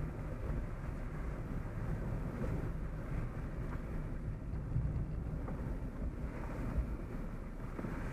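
Steady low road and engine rumble heard from inside a moving car's cabin, with faint small knocks and ticks here and there.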